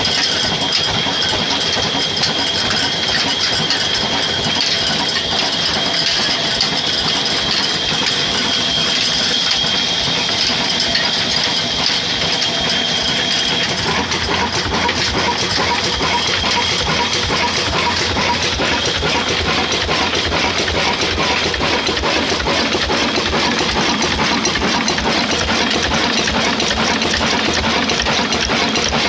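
Old village diesel engine running steadily and loudly with a fast, even rhythm; its sound gets deeper about halfway through.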